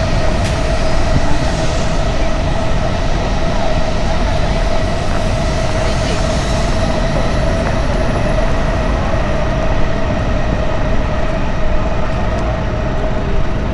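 Subway train running, with a steady rumble and a steady whine.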